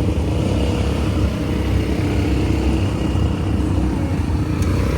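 ATV engine running steadily during a ride, a dense low rumble without pause.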